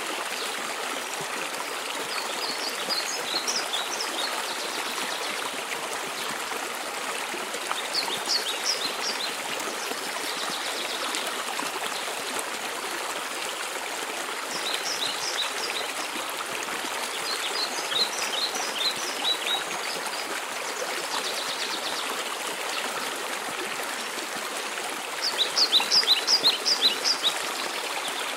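Waterfall and stream running in a steady rush, with a small bird's song of quick high chirps breaking in every few seconds, loudest near the end.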